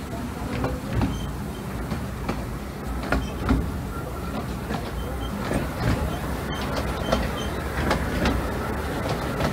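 Narrow-gauge train carriage rolling slowly, heard from its open window: a steady low rumble with irregular clicks and knocks as the wheels cross rail joints and points.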